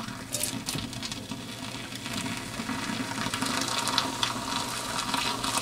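Hot water being poured down the centre of a diesel heater's burn chamber, running and splashing steadily as it rinses oven cleaner and dirt out.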